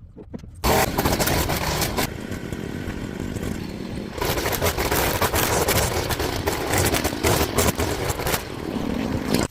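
Small petrol engine of a grass-cutting machine running loudly. It comes in suddenly about a second in, grows a little louder about halfway through, and cuts off abruptly at the end.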